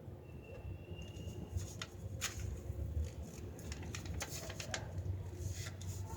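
A paper sheet being handled and folded by hand, with brief crackles and rustles as it is creased, over a low rumble.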